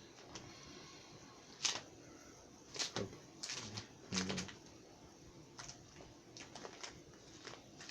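Plastic DVD cases being handled: a few sharp clicks and knocks between about one and a half and four and a half seconds in, then lighter ticks.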